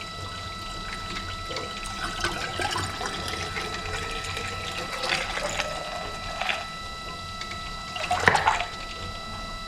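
Water being poured into a radiator to top off the cooling system, trickling and splashing, over a steady faint whine in the background. A louder short splash or clatter comes about eight seconds in.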